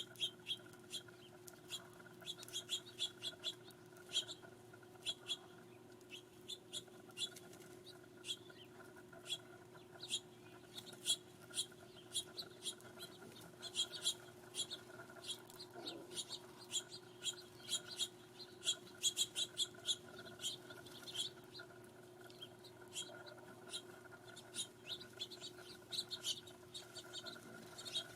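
Small birds chirping, many short calls coming in quick runs, over a steady faint hum.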